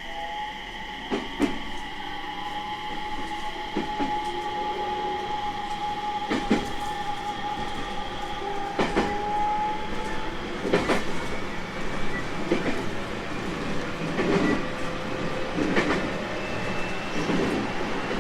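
JR 701 series 1000-番台 electric train running, its motors giving a steady high whine that fades about ten seconds in. Wheels clack over rail joints throughout, more often and in pairs toward the end.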